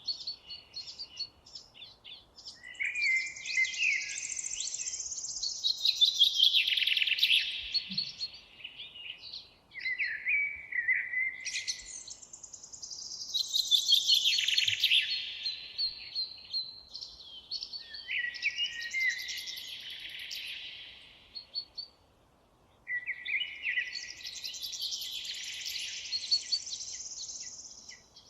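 A songbird singing four long, fast phrases of about four to five seconds each, high-pitched, with short pauses between them.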